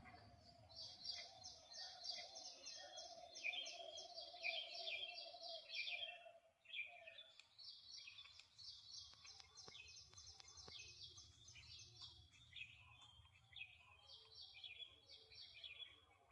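House sparrows chirping, a fast chatter of short high chirps in two long runs with a brief lull about six and a half seconds in. A faint steady tone lies under the first six seconds.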